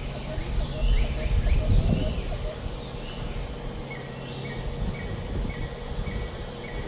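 Insects chirping in woodland, with a short high chirp repeating about twice a second from about halfway in. A low rumble over the first two seconds.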